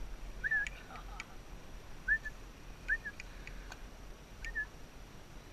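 A bird chirping: four short, hooked call notes spaced a second or more apart, with a few faint clicks between them.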